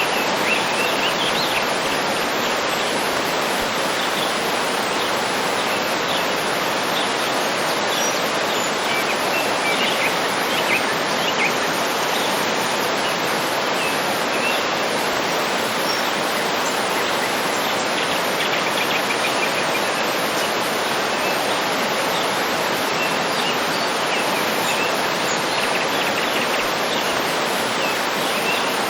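A waterfall rushing steadily, with birds chirping in short bursts over it.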